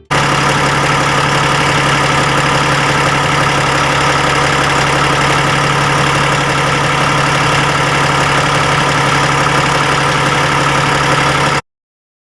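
Cummins ISX inline-six diesel in a Peterbilt 388 idling steadily, with no revving; the sound stops suddenly near the end.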